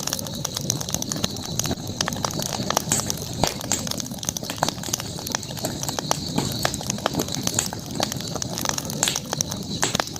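Campfire crackling: many sharp pops and snaps come at irregular moments over the low rush of burning wood, with a steady high hiss underneath.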